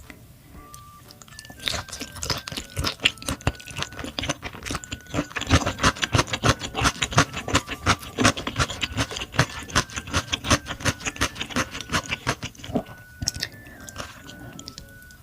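Close-miked chewing and crunching of food, a dense run of quick mouth clicks that starts about a second and a half in and dies away near the end. Soft background music with a simple stepping melody plays underneath.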